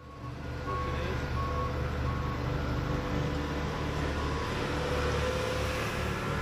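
Diesel engine of a railroad track-maintenance machine running steadily, with a backup alarm beeping a little more than once a second.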